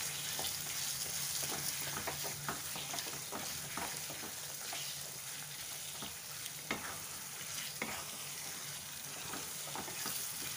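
Chicken pieces, tomatoes and green chillies sizzling in oil in a nonstick kadai as a spatula stirs them, with irregular light scrapes and taps of the spatula against the pan. The chicken is frying in its own oil with no water added.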